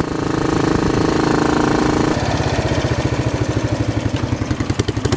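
Royal Enfield Bullet 500 single-cylinder engine under way on the throttle. About two seconds in the throttle closes and the engine drops to a slower, even thump as the bike slows for a junction.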